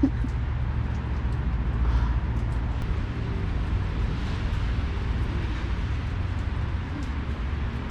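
Steady low rumble of city traffic in the background.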